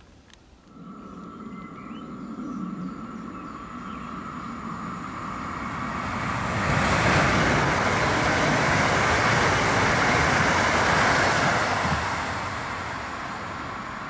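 Electric regional passenger multiple-unit train approaching and passing close by, with a steady whine over its running noise. The sound builds from about a second in, is loudest in the middle as the cars go past, and fades towards the end.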